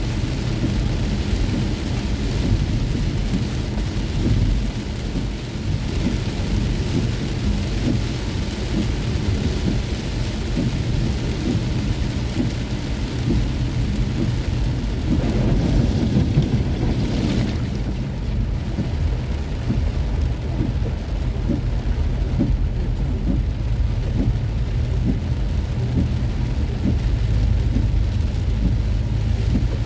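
Heavy rain beating on a moving car, many small drops ticking over a steady low rumble. About 15 seconds in, a louder wash swells for two or three seconds, then fades back.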